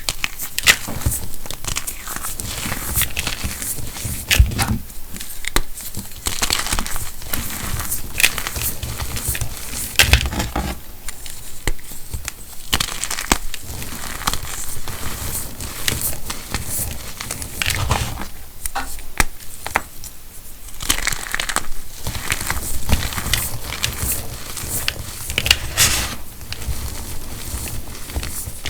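Pieces of calcium carbonate chalk being crushed and crumbled, a dense crunching and crackling of many sharp clicks in repeated bouts with short pauses between them.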